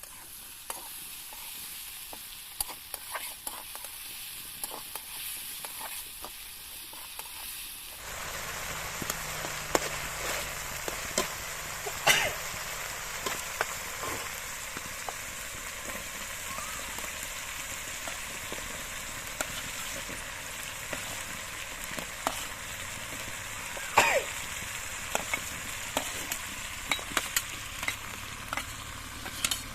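Food sizzling in hot oil in a pan while it is stirred, with scrapes and clicks of a spoon against the pan. The sizzle grows louder about a third of the way in, and there are a couple of sharper knocks.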